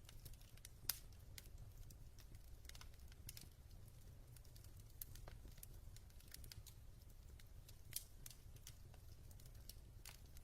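Near silence: low room hum with faint, irregular clicks and crackles, a sharper click about a second in and another near eight seconds.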